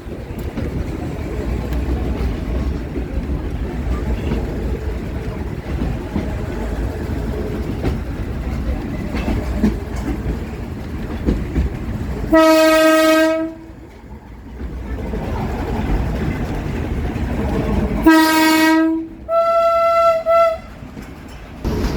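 Train running with a steady low rumble, and the diesel locomotive's horn sounding three times: one blast about halfway through, then two more close together near the end, the last one higher in pitch.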